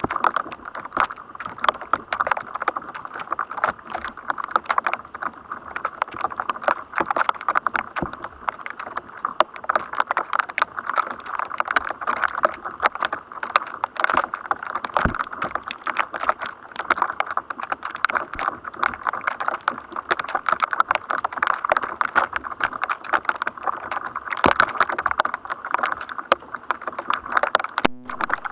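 Electrostatic noise from a thunderstorm: a continuous, irregular crackle of clicks and pops over a steady hiss, with a sharper snap near the end.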